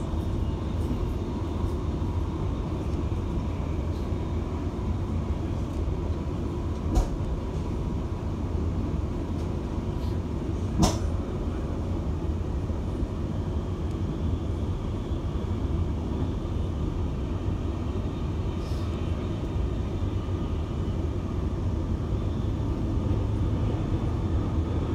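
Inside a moving electric suburban passenger train: the steady low rumble of the carriage running on the rails, with two sharp knocks, about seven and eleven seconds in, the second the louder.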